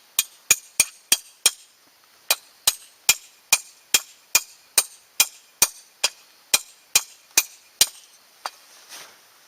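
A hammer striking in a fast, even series, about two and a half blows a second: five blows, a short pause, then a long run, and one last blow near the end.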